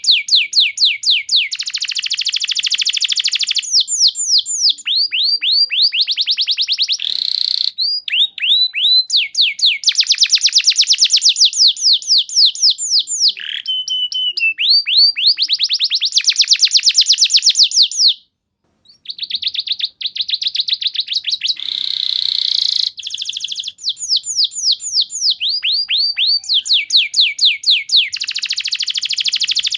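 Domestic canary singing a long, unbroken run of rapid trills, each a quick string of high falling notes whose speed changes from phrase to phrase. The song stops briefly a little past halfway.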